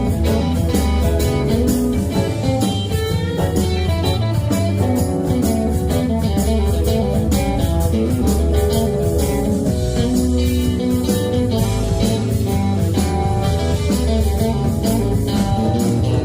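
Live band playing an instrumental passage led by guitar, over a low bass line and a steady beat.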